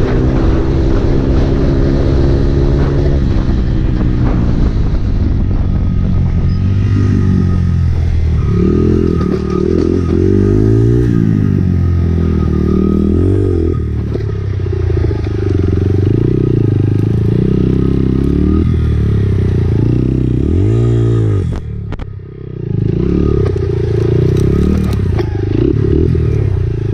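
Honda CRF four-stroke dirt bike engine being ridden hard, revving up and down over and over as the throttle is worked. Once, late on, the engine drops off briefly, nearly shutting the throttle, then picks up again.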